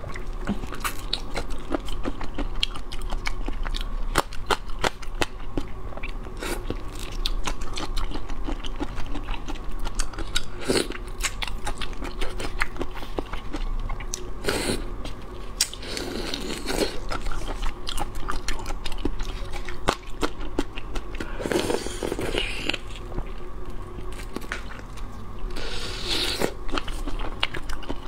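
Close-miked chewing and biting of shrimp, with a steady run of small crunchy clicks and mouth sounds. A few longer, louder stretches come in the second half.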